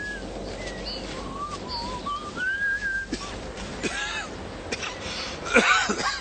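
A person whistling a slow tune: held notes that slide from one pitch to the next. A brief, louder call-like sound cuts in about five and a half seconds in.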